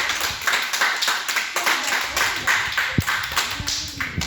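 A small group of children clapping their hands, a quick steady run of claps.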